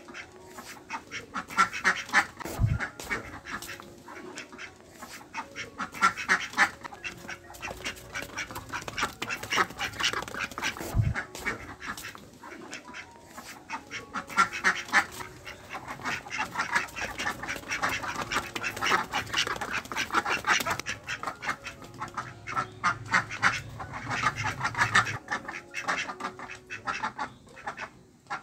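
Ducks quacking in runs of rapid quacks that come back every few seconds.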